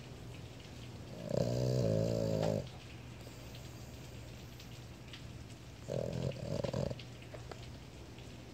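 Boston Terrier snoring in its sleep: one long, pitched snore about a second in, then a shorter snore broken in two about six seconds in.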